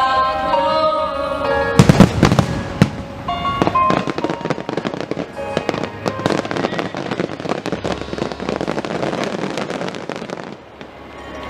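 Fireworks going off over music: a few loud booms about two seconds in, then dense crackling for several seconds that dies away near the end.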